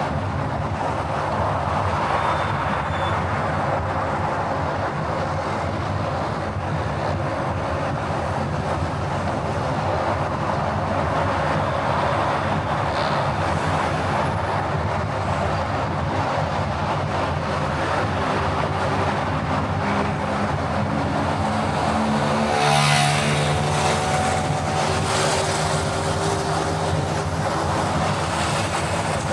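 Steady road and engine noise of a car driving. About two-thirds of the way in there is a brief louder rush with a pitched hum.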